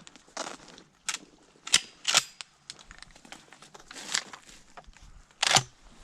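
Scattered sharp cracks and clicks, about six over several seconds, the loudest about five and a half seconds in.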